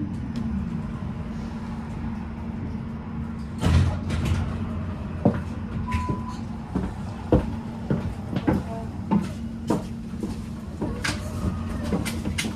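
Tram standing at a stop after braking, its electrical equipment giving a steady hum, with scattered clicks and knocks typical of doors and boarding passengers, and a short beep about six seconds in.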